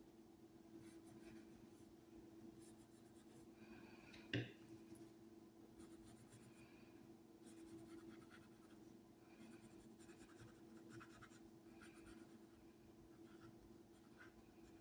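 Faint scratching of drawing strokes, short and irregular, with one sharper tap about four and a half seconds in, over a faint steady hum.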